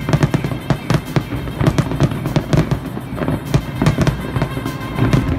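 A large aerial fireworks display: rapid, overlapping shell bursts and crackling, several bangs a second over a continuous low rumble.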